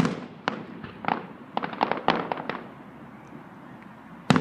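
Aerial fireworks bursting: a sharp bang at the start, then a quick string of pops and crackling bangs over the next two seconds, and a loud bang near the end.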